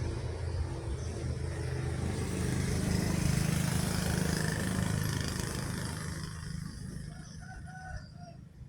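A truck's engine drone going by, swelling and then fading into the distance. Near the end a rooster crows faintly.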